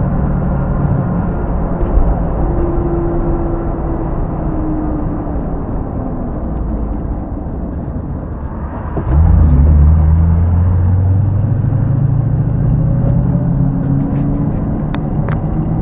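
The 1967 Chevrolet Camaro's engine running as the car drives, heard from inside the car. About nine seconds in it suddenly gets louder as the car accelerates, and its pitch rises slowly. A couple of sharp clicks come near the end.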